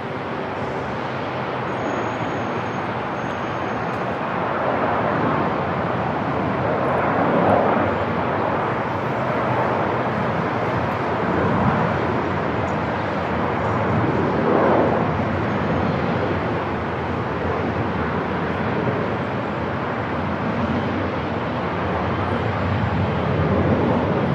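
Airport ambience: a steady, dense noise that swells and eases a few times, with no distinct single event.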